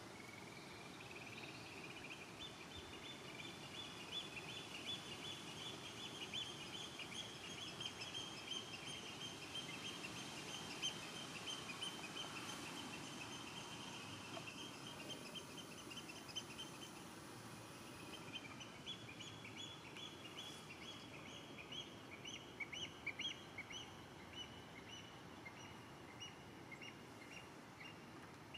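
A bird calling in long runs of rapid, high repeated notes, in two bouts: the first from the start to about halfway through, the second after a short break and running on nearly to the end, over a steady background hiss.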